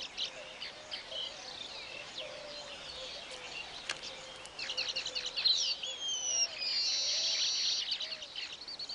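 Weaver birds chattering: many quick high chirps and twitters, busier from about halfway through, with a few falling whistles and then a buzzy trill.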